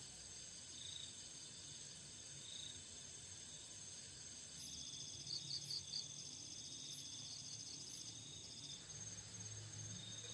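Faint night chorus of insects such as crickets, trilling steadily at a high pitch, with a second, faster pulsing trill joining for a few seconds in the middle.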